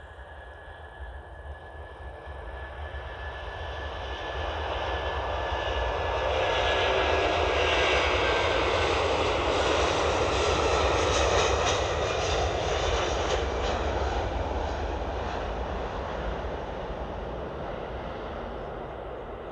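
Airbus A340-600's four Rolls-Royce Trent 500 jet engines at takeoff power as the airliner passes: the roar builds, is loudest around the middle, then slowly fades. A thin high whine drops slowly in pitch as it goes by.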